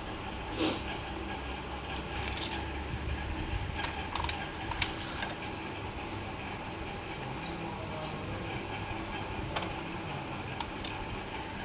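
Scattered light metallic clicks and knocks of a compression gauge's hose fitting and hand tools being unscrewed and refitted in a spark-plug hole, over a steady low background hum.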